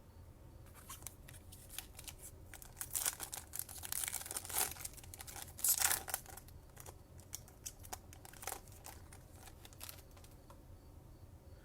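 Trading-card pack wrapper being torn open and crinkled by hand: a run of crackles and rustles, busiest in the middle and thinning out near the end.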